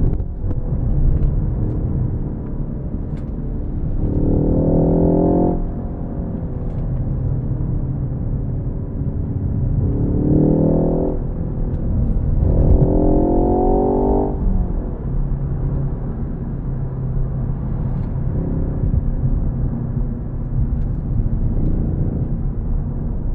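Ford Focus ST engine pulling hard under acceleration three times, its pitch climbing each time, with steadier, lower running between the pulls, over a constant rumble of tyre and road noise.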